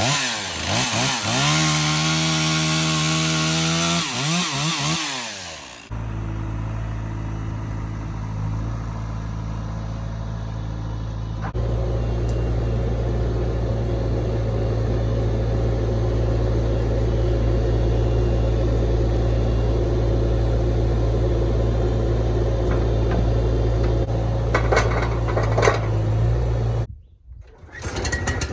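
Engine of a small portable sawmill running and sawing pine log stock. Its pitch swings up and down in the first few seconds, then it runs steadily, with abrupt changes about six seconds in and again near the end.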